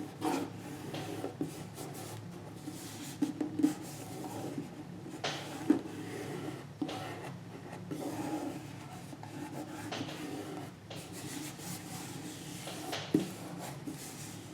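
Glue stick rubbing across the back of paper cut-outs, with the paper being handled and pressed down and a few sharp knocks on the work surface.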